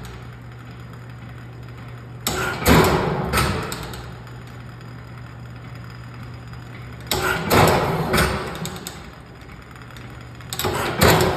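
1875 Otto & Langen 1 HP atmospheric gas engine running, a clattering burst of knocks recurring about every four to five seconds with a steady low hum between. There are three bursts, each lasting about a second.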